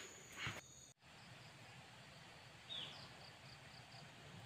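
Faint outdoor ambience. In the first second a steady high insect drone and a short knock are heard, then the sound cuts off abruptly. After that a faint insect ticks several times a second, and a bird gives one short falling call about three seconds in.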